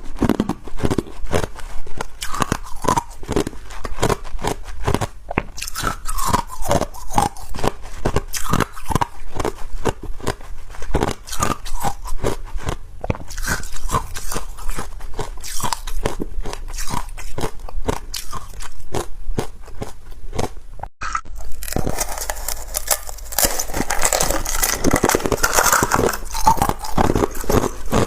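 Ice being bitten and chewed: a fast, irregular run of crisp crunches. About 21 seconds in there is a brief break, and after it the crunching becomes denser and louder.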